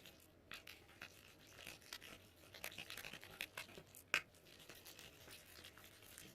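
Slime being worked by hand: faint, irregular sticky clicks and crackles, with one sharper click about four seconds in.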